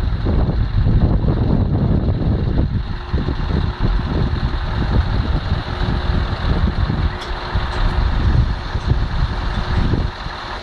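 Scania 500 hp truck's diesel engine running with a heavy, uneven low rumble, a faint steady whine joining it about three seconds in and stopping near the end.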